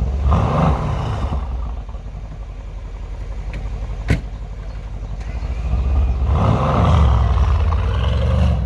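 Mercedes-AMG C63 S V8 exhaust in Sport Plus mode, idling with a low rumble and revved up twice, once just after the start and again near the end. There is a single sharp crack about four seconds in.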